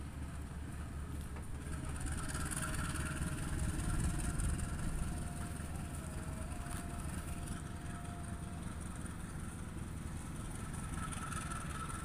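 Passenger coaches of a local train rolling past as it pulls away from the station: a steady low rumble of wheels on the rails, with a faint thin whine through the middle.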